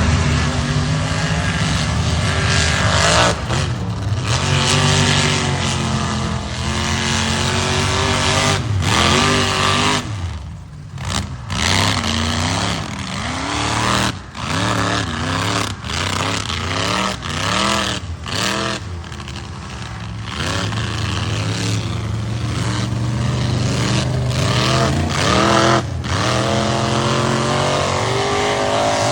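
A mud truck's engine running loud and hard, revved up and down again and again, its pitch swinging repeatedly with a few short drop-offs in throttle around the middle.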